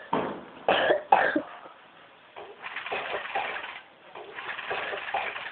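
Pet parrot making short raspy calls: three quick ones in the first second and a half, then two longer hoarse, hissy stretches.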